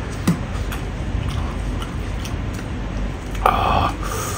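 Close-miked eating sounds: chewing and wet mouth noises with small scattered clicks, and a brief louder sound about three and a half seconds in.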